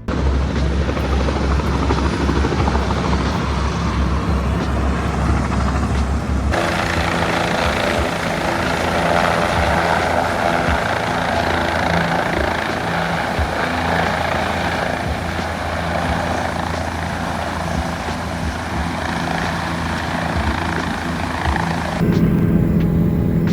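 Helicopter engine and rotor running steadily and loudly, a continuous mechanical rush with a low steady drone. The sound changes abruptly about six and a half seconds in and again near the end.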